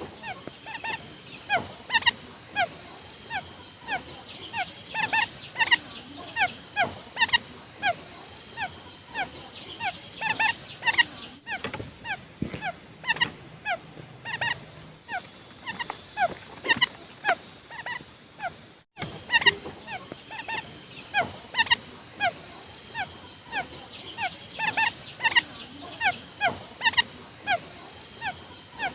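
Quail lure call: a rapid, continuous series of short downward-sliding chirps, several a second, played as a hunting lure, with brief breaks about 11 and 19 seconds in.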